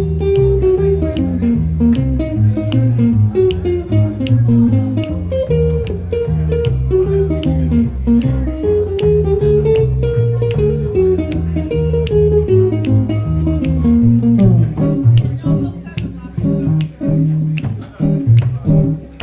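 A band's instrumental break: a single-note guitar solo over bass guitar and drums, the melody line easing off a few seconds before the end while the rhythm section carries on.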